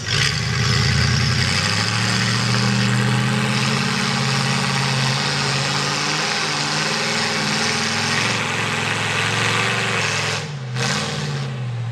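Mega mud truck's V8 with open headers running loud, its low engine note wavering as the throttle is worked, with a brief drop in revs near the end before it picks back up.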